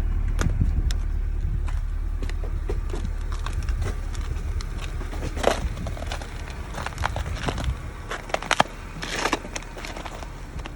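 Footsteps crunching and cracking on a crust of ice over snow, as scattered sharp crunches. A low rumble runs underneath and falls away about eight seconds in.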